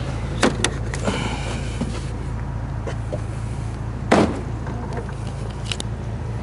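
Bentley Continental GT idling steadily under a series of sharp clicks and one louder thump about four seconds in, the sounds of a car door and its fittings being handled.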